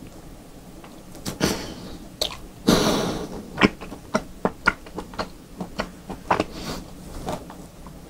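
Close-miked chewing of raw beef: a string of wet mouth clicks and smacks at an uneven pace, with a longer, noisier sound about three seconds in.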